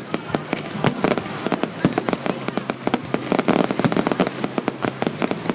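Fireworks display: a rapid, irregular string of bangs and crackles from exploding fireworks, several a second.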